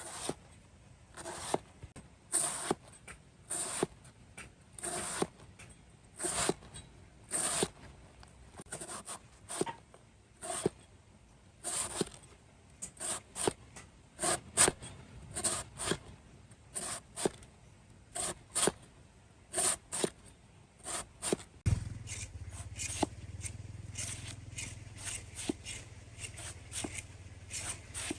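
Repeated short scraping strokes, about one a second at first, then quicker and more crowded. A low steady hum starts suddenly about three quarters of the way through.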